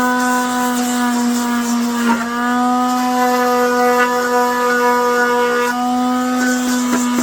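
A small high-speed electric power tool motor, such as a rotary tool, runs steadily with a high hum, its pitch sagging briefly about two seconds in as it takes load. A few sharp clicks come near the end.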